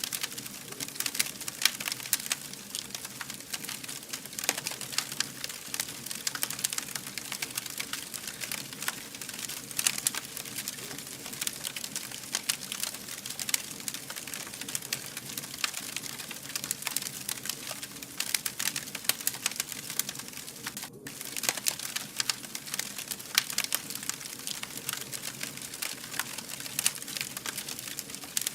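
Fire burning with dense, continuous crackling and pops over a soft steady hiss, broken by a momentary dropout about three quarters of the way through.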